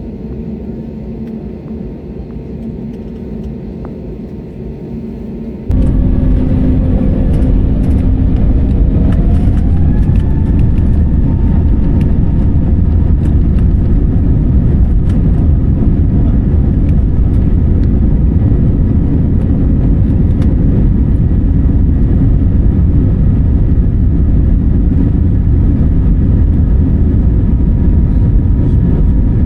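Jet airliner engine noise heard from inside the cabin. A steady hum with level tones jumps suddenly to a much louder rumble about six seconds in, and an engine whine rises in pitch for a couple of seconds, then holds steady.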